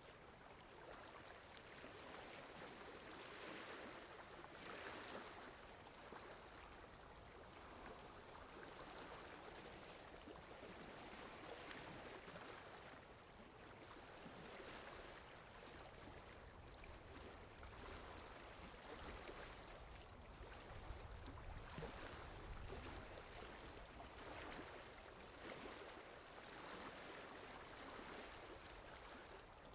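Steady rain falling, a soft even hiss that swells and eases every few seconds, with a faint low rumble underneath through the middle of the stretch.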